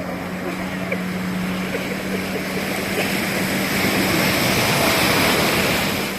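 Jet ski engine running at a steady pitch over a rush of water and spray; the rushing swells to its loudest about five seconds in and eases off near the end.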